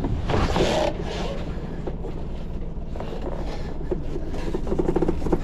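Yacht's engine running steadily at low speed while the boat is manoeuvred alongside a pontoon, with a brief scrape or rustle about half a second in.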